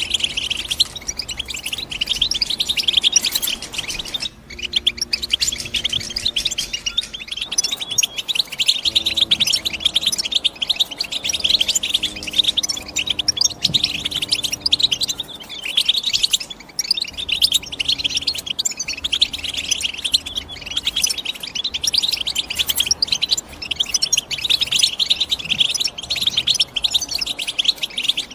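European goldfinch singing: a continuous, rapid twittering of high chirps and trills, with a brief break about four seconds in.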